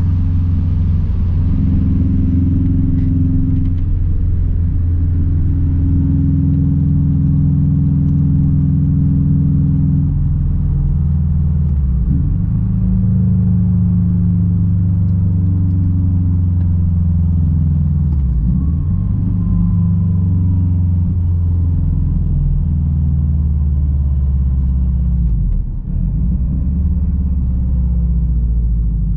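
Straight-piped exhaust of a 2006 Subaru WRX STI's turbocharged flat-four, running loud and steady while driving. The note dips briefly and picks back up three times, as at gear changes.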